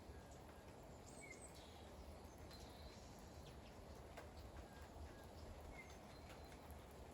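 Faint steady rain with scattered drips ticking, and a few faint high chirps.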